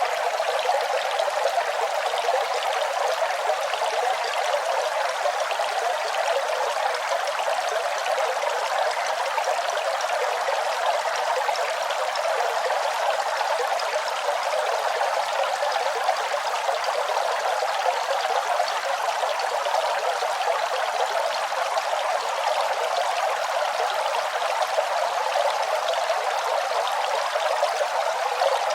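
Running water flowing steadily: an even, continuous rush with no deep rumble, unchanged throughout.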